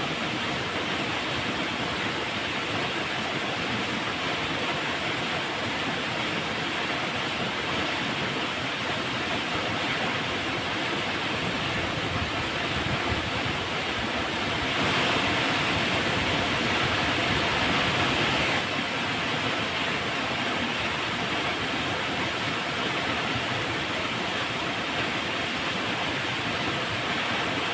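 Flowing river water rushing steadily. For about four seconds in the middle it grows a little louder and brighter, then drops back suddenly.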